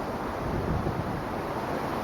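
Strong storm wind blowing, with wind buffeting the microphone; it swells slightly about half a second in.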